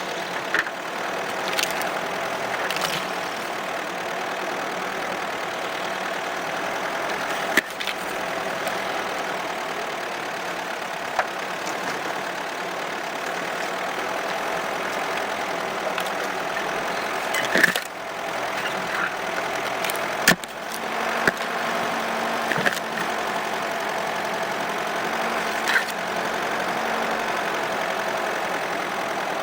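Opel Monterey off-roader driving through snow, its engine running steadily, with occasional sharp knocks and clatters from the car.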